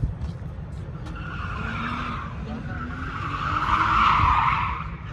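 Car tyres screeching as a car spins or slides them under power. The screech builds, is loudest about four seconds in and fades near the end, with the engine's note rising underneath.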